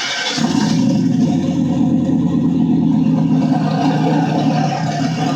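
Car engine running steadily, coming in abruptly about half a second in.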